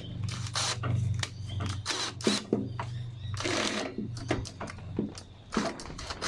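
Clicks, taps and scrapes of hands fitting a replacement throttle cable to a lawnmower, over a steady low hum that fades out about four and a half seconds in.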